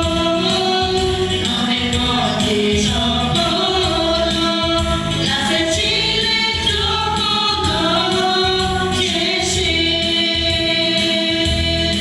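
Choir singing a Christian hymn in harmony, with instrumental backing and a steady beat.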